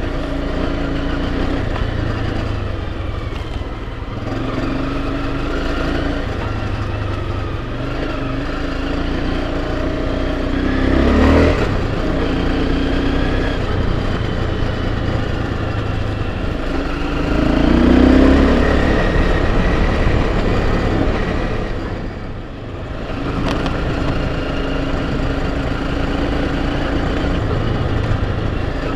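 Enduro motorcycle engine running under way, the revs rising and falling. It revs up harder about a third of the way in and again past the middle, then eases off briefly.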